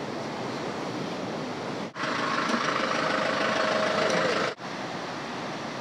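Steady noise of a wet town street. For a couple of seconds in the middle, a vehicle engine idles close by with a steady hum. The sound breaks off abruptly twice where the shots change.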